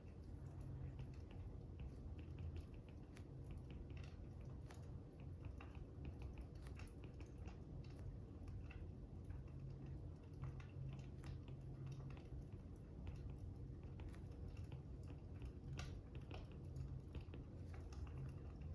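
Faint fire crackling: irregular small crackles and pops over a low, steady rumble.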